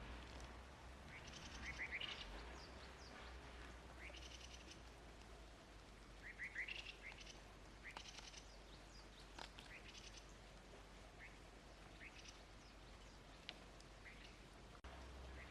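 Faint chirping of small birds: short, high calls and quick pitch sweeps scattered throughout, over a steady low hum.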